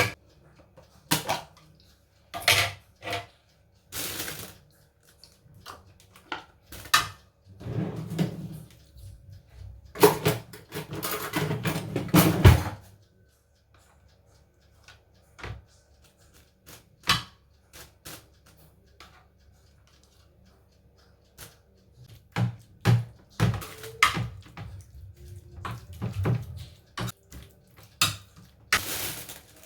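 Kitchen clatter: dishes and utensils knocking and clinking at irregular intervals, with a few seconds of running water about ten seconds in.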